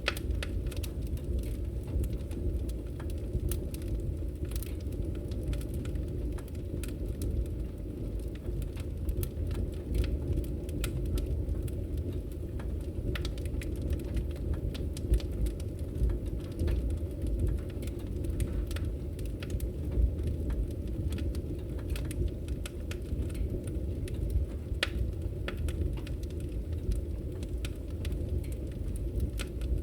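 Wood fire burning: a steady low rumble of flames with frequent small crackles and pops of the burning logs.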